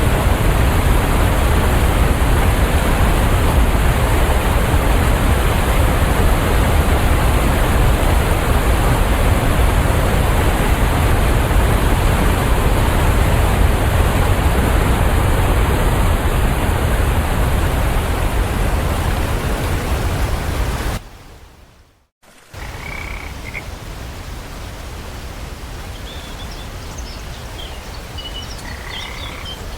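Steady rain hiss that fades out about twenty seconds in. After about a second of near silence, a quieter steady hiss returns with short, high bird chirps scattered over it.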